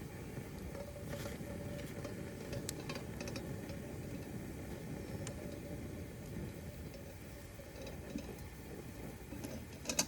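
Wood fire burning: a steady low rush with scattered sharp crackles and pops, the loudest pair near the end.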